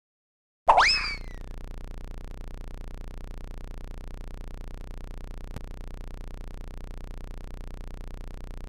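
A cartoon sound effect: a sudden loud pitched sweep that shoots up and then slides down, about a second in. It is followed by a steady, low, evenly pulsing buzzing hum.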